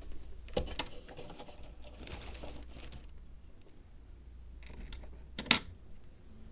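Small handling sounds from work on a miniature dry-landscape zen garden diorama: a few light clicks near the start, a soft scraping rustle around two to three seconds in, and one sharp click about five and a half seconds in.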